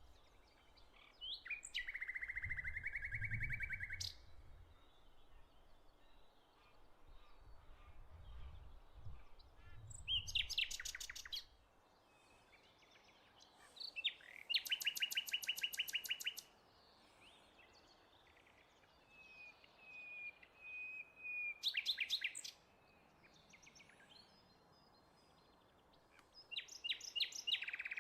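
A songbird singing a trilled song of rapid, evenly repeated notes, each song lasting one to two seconds and repeated five times with pauses between, with fainter chirps in between.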